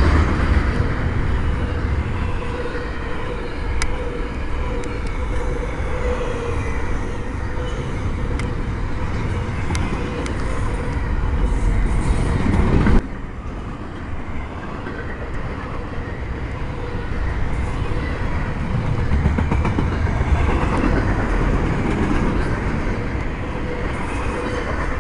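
Norfolk Southern freight train rolling past: a steady rumble of steel wheels on rail with occasional sharp clanks and a faint steady tone. The sound drops suddenly about halfway through, then builds again.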